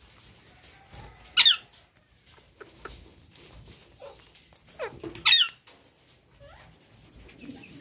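Parrot giving two loud, sharp squeaky calls that drop quickly in pitch, about four seconds apart, with a few fainter chirps between.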